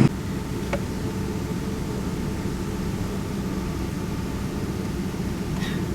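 Steady low rumble of an airliner cabin on the ground after landing, from the engines and air conditioning, with a faint steady hum. There is a small click about a second in and another near the end.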